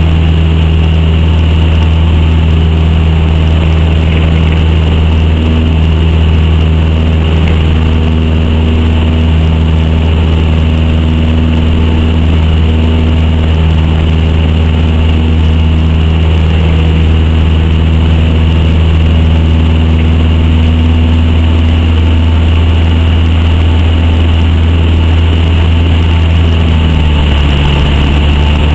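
Cessna 152's four-cylinder Lycoming engine and propeller running at steady power as a loud, constant drone, dropping slightly in pitch near the end.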